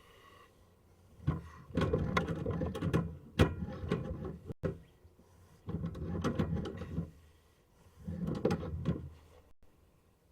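Sewer scope cable scraping and knocking inside a drain pipe as it is fed through, in three rough bursts of clattering with sharp clicks.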